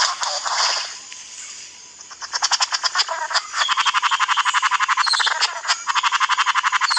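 A male bird's courtship call: a brief outburst at the start, then from about two seconds in a fast, steady rattle of about a dozen pulses a second.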